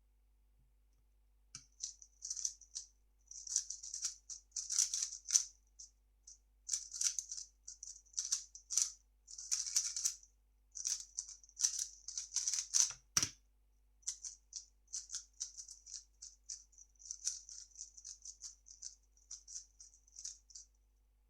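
A 3x3 speedcube being turned fast, a quick run of plastic clicks and clacks from its layers. There is one thump about thirteen seconds in, followed by a brief pause, and then the turning resumes.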